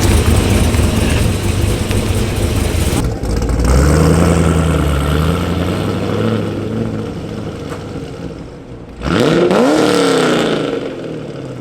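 Car engines running, with sudden cuts between clips: a steady engine drone that slowly fades away, then an engine revving up and dropping back just after the last cut.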